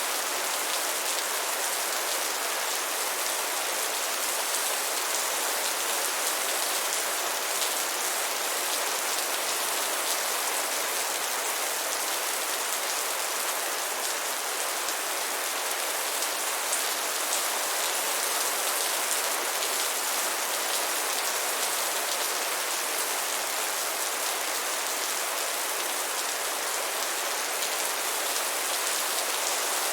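Steady rain falling, an even unbroken hiss of many drops with no single louder event.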